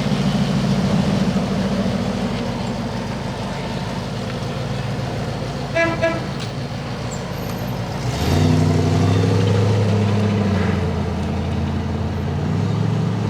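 Car engines running as cars drive slowly past, with a short double toot of a car horn about six seconds in. About eight seconds in, a louder engine with a deep, steady note comes close.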